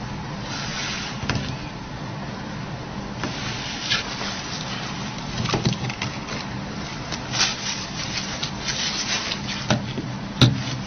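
Small clicks and short scrapes of a Torx screwdriver and tweezers working the tiny screws out of a phone's metal frame, over a steady low hum. One sharper click comes near the end.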